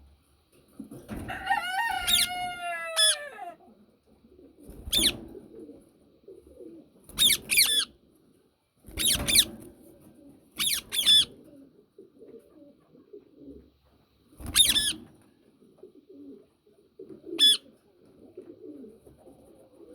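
Yellow Indian ringneck parakeet calling: a longer call that wavers in pitch near the start, then a string of short, sharp high calls every couple of seconds.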